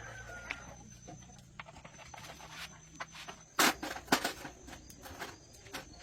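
Irregular clicks and knocks, with two sharp, louder knocks about half a second apart midway.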